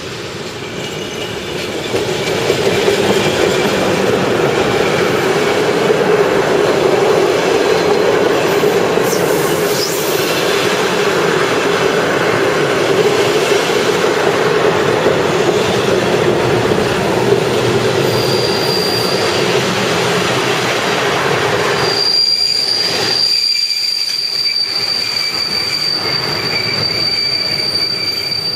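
SM42 diesel locomotive passing close by at the head of a train of old passenger coaches: engine running and wheels rolling on the rails, growing loud over the first two seconds. A steady high-pitched wheel squeal sets in past the middle and keeps on as the last coaches go by, after the heavier rolling noise drops away.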